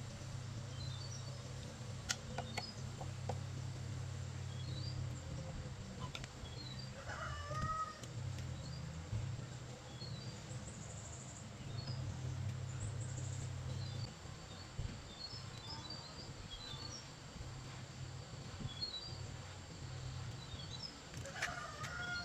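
Low background hum with small birds chirping now and then. A louder call comes about seven seconds in and again near the end.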